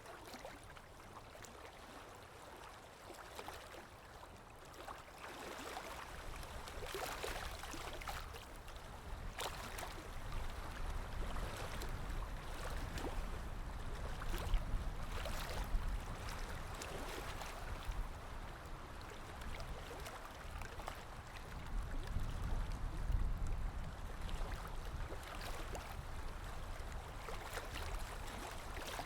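Water lapping and splashing gently and irregularly, over a low rumble of wind that swells and eases, growing louder about a third of the way in.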